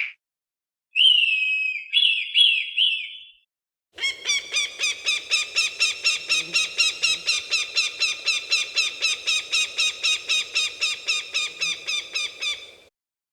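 Falcon calls: three or four short, sharply falling cries, then a long, fast run of repeated harsh notes, about four a second, lasting some nine seconds.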